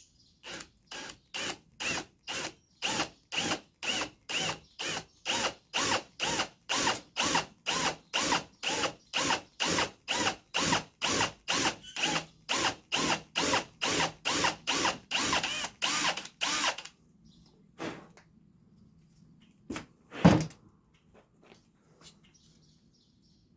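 A drill boring a dowel hole deeper into wood, in an even pulsing rhythm of about two and a half strokes a second that stops after about 17 seconds. A few separate knocks follow, the loudest about twenty seconds in.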